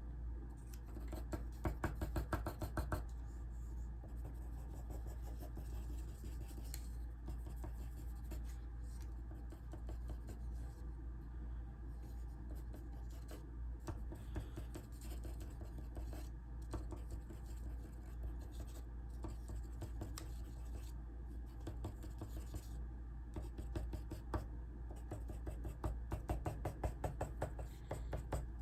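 Rapid back-and-forth sketching strokes scratching across sketchbook paper, busier and louder about a second in and again near the end, over a steady low hum.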